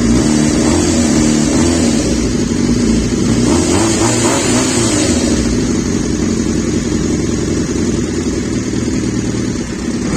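Kawasaki ZZR400's inline four-cylinder engine running through an aftermarket WRS exhaust, steady throughout, with a brief swell in its higher, hissier sound about four seconds in.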